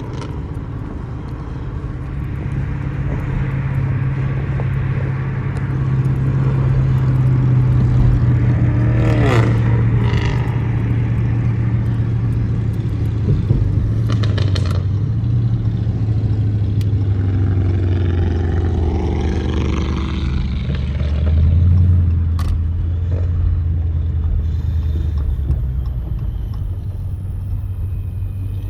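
Car engine running with a deep, steady drone; its pitch eases down a little partway through, with a few brief clicks over it.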